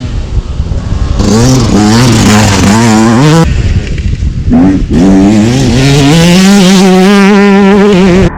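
Motocross bike engine at full throttle, its pitch climbing in repeated steps as it shifts up. The revs drop off about three and a half seconds in, then pick up again and hold at high revs.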